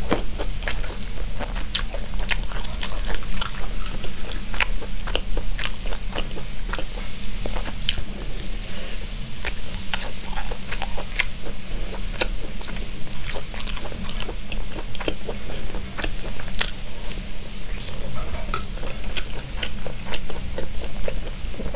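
Close-up chewing and biting of fried, spice-coated skewered food: wet mouth sounds with many short crisp clicks and crunches, over a steady low hum.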